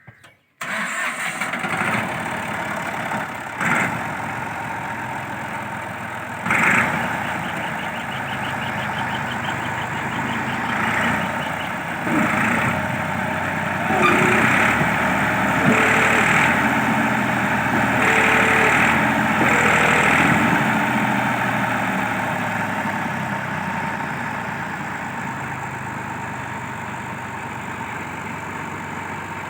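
Tractor engine running steadily, with several brief louder surges in the middle stretch.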